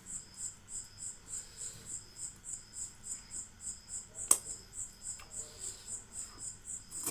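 An insect chirping steadily, about three to four short high-pitched chirps a second, with one sharp click about four seconds in.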